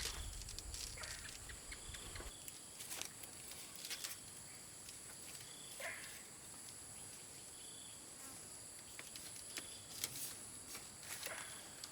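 Insects droning steadily in several high-pitched bands, with scattered light clicks and knocks. A low rumble stops about two seconds in.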